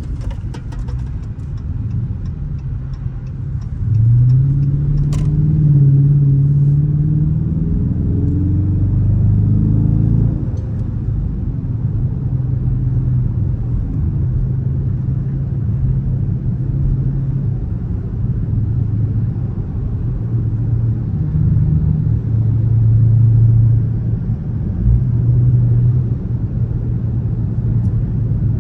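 Dodge Charger R/T's V8 engine accelerating hard about four seconds in, its note rising and loud for several seconds before settling into steady cruising. It pulls again briefly near the end. Light, evenly spaced ticks sound in the first couple of seconds.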